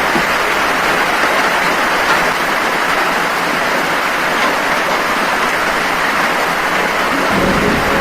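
Heavy rain falling, a steady, loud hiss. Music comes in near the end.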